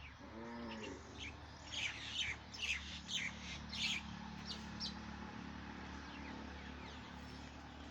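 Birds chirping: a quick run of high chirps from about two to four seconds in, with a few more near five seconds, over a steady low hum. A short low call comes about half a second in.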